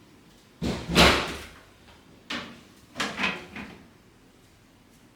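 A few knocks and clunks of something being handled: a heavy thump about a second in, then several lighter knocks a second or two later.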